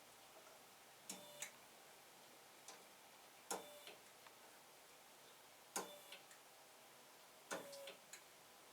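Protomaker 3D printer's stepper motors, freshly powered, giving sharp irregular clicks with a short ringing tone, one every second or two.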